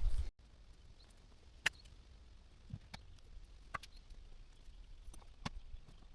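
Quiet forest background with about half a dozen short, sharp clicks and snaps at irregular intervals.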